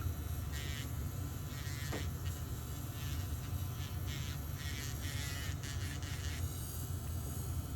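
A small motor buzzing in short bursts, several times over the stretch, above a steady low hum.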